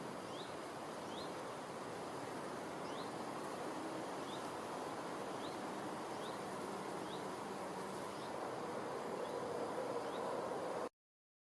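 Outdoor nature ambience: a steady even hiss with short high rising chirps at irregular intervals. It cuts off abruptly near the end.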